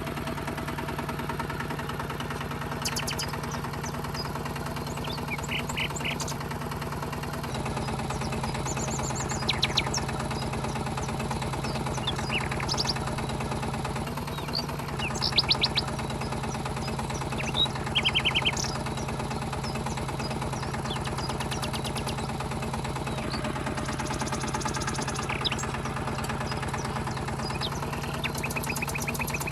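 Small electric motor of a DIY miniature tractor running steadily, its hum shifting slightly twice. Short bursts of rapid clicking come and go over it, the loudest about halfway through.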